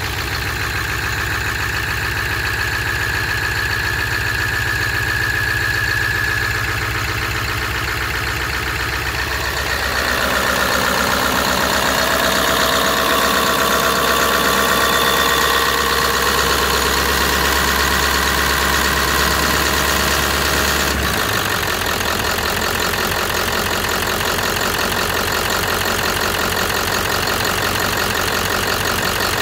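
Ford 7.3 L Power Stroke V8 turbodiesel idling while warming up after a cold start at −8 °C. Its sound shifts about ten seconds in and again about two thirds of the way through.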